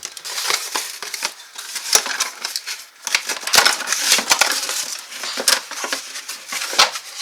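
Packaging being handled while unboxing: irregular crinkling and rustling of wrapping and cardboard, with many small clicks and knocks.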